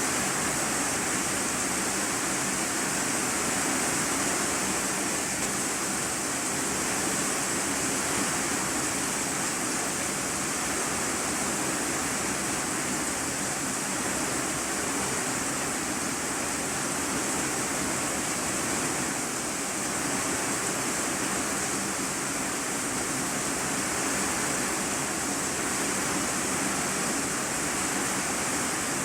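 Heavy rain falling on an iron-sheet roof, heard from inside the room beneath it: a steady, dense hiss that does not let up.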